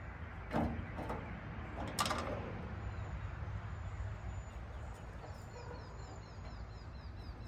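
Two sharp knocks about a second and a half apart, from car body parts being handled during front-end assembly, over a low steady rumble. From about five seconds in, a bird chirps quickly, about four notes a second.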